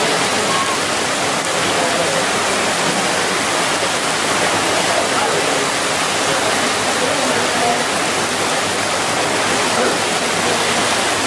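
Heavy rain pouring down steadily, a loud even hiss, with faint voices of people in the background.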